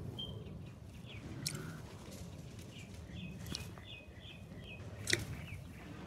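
Small birds chirping in the background, with a quick run of about five short chirps a little past halfway, over steady low outdoor background noise. Three sharp clicks stand out, the loudest near the end.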